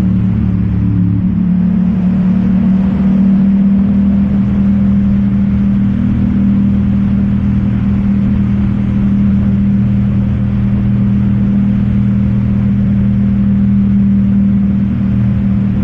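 Yamaha MT-07's parallel-twin engine running at a steady pitch while riding, heard from a bike-mounted camera, with a haze of wind and road noise underneath. The note shifts briefly about a second in, then holds.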